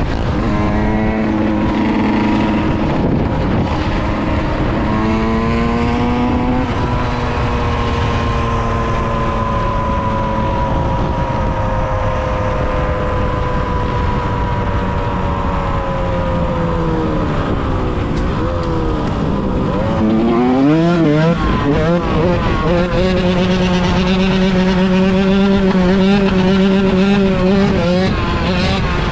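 Yamaha YZ125 two-stroke single-cylinder dirt bike engine under way: the revs climb about five seconds in, hold high and slowly sag, drop away sharply, rise and fall unevenly for a couple of seconds, then settle at a steady lower pitch.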